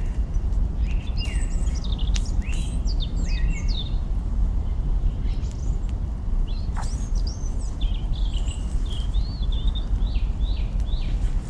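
Small birds chirping in runs of quick sliding notes over a steady low rumbling noise, with a few sharp crackles from branches burning in a campfire.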